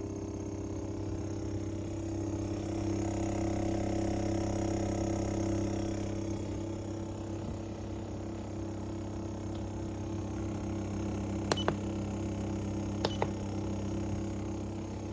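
Steady low electric hum, with two short double clicks, about eleven and a half and thirteen seconds in.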